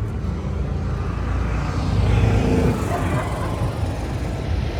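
Steady low rumble of a small vehicle riding along, a little louder about two seconds in.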